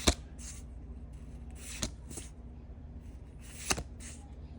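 Trading-card packaging being handled: short rustles with three sharp clicks, near the start, about two seconds in and near the end.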